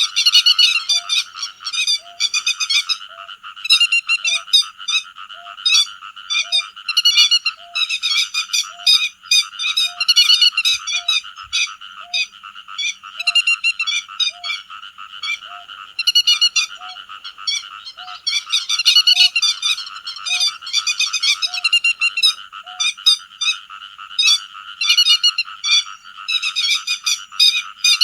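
A flock of grey-headed lapwings calling: sharp, high, overlapping calls in dense bursts over a steady chorus. Behind them a short low note repeats about once a second and stops near the end.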